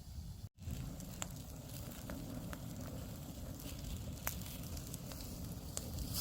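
Campfire crackling, with scattered sharp pops, over a steady low rumble; the sound cuts out briefly about half a second in.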